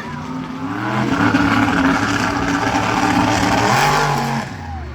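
Monster truck engine revving up, held at high revs for about three seconds, then dropping off near the end.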